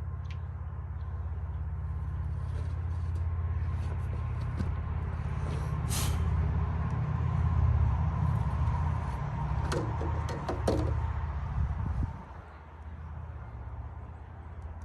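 A loud, steady, low mechanical hum that cuts off suddenly about twelve seconds in, with a few sharp clicks and knocks over it.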